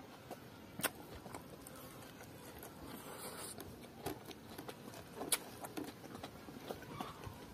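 Close-up eating sounds: chewing a mouthful of pork curry and rice, with many small wet mouth clicks and smacks, the two sharpest about a second in and just past five seconds.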